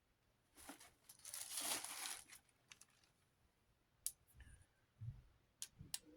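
A stretch of rustling, crinkling handling noise lasting under two seconds, followed by a few sharp clicks of small parts being handled.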